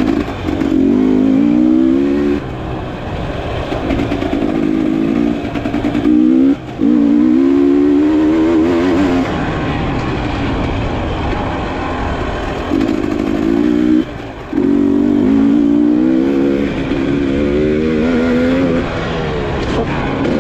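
Enduro dirt bike engine revving under throttle, its pitch climbing in runs and falling back, with the engine note dropping away briefly twice.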